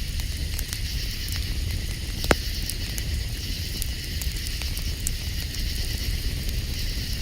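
Campfire crackling with scattered small pops and one loud pop about two seconds in, over a steady low rumble and a high steady hiss.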